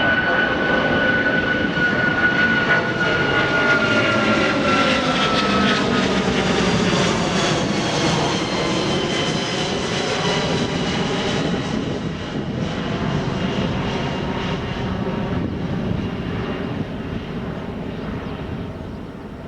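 Jet airliner passing by on the runway. Its engine whine slides down in pitch as it goes past, and the loud engine noise then slowly fades.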